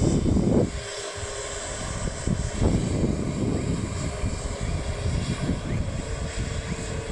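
Boeing 737 jet engines running, a steady rumble with an even hum through it.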